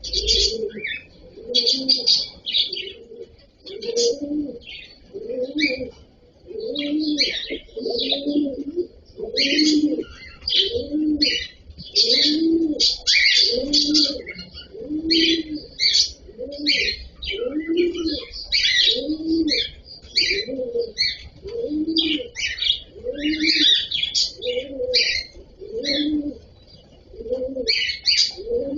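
Cockatiels chirping busily in short high calls, with a low rising-and-falling call repeating steadily beneath them about every second and a bit.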